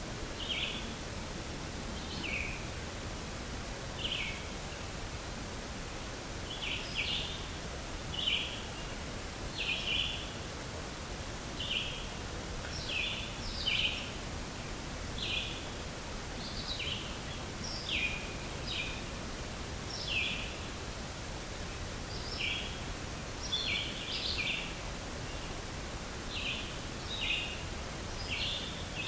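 A songbird giving short high chirps about once or twice every two seconds, some slurring downward, over a steady outdoor hiss.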